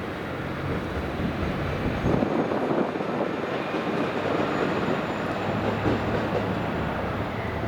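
Shinkansen train moving along the platform, a steady rumble of wheels and air with a faint high whine in the middle.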